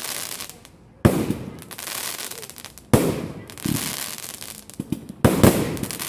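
Fireworks going off: three sharp bangs about two seconds apart, each trailing off in a hiss, with a few smaller pops in between.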